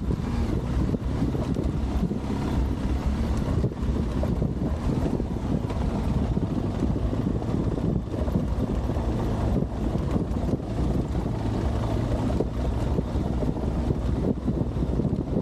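Adventure motorcycle engine running steadily under way off-road, with wind noise on the microphone.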